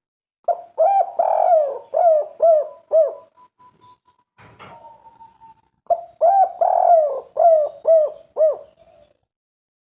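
Spotted dove cooing: two song phrases a few seconds apart, each a run of about six arched coos with a longer note near the start and ending in three short 'kuk' notes. There is a brief sharp knock between the two phrases.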